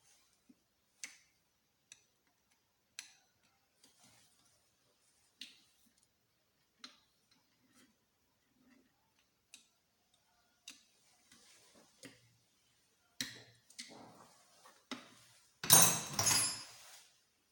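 Scattered single metallic clicks and ticks from tools and engine parts being handled during motorcycle engine disassembly, then a louder clatter of metal parts near the end.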